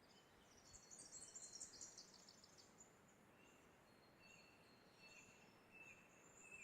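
Faint wild bird calls: a brief burst of high twittering about a second in, then a run of thin, repeated high whistled notes from the middle onward, over quiet bush ambience.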